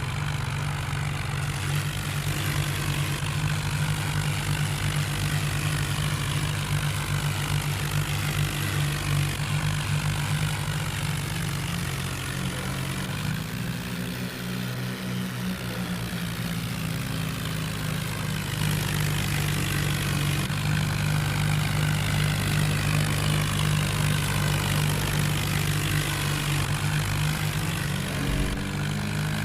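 Tractor engine running steadily. It eases off and drops in pitch about 13 seconds in, then picks up again a few seconds later.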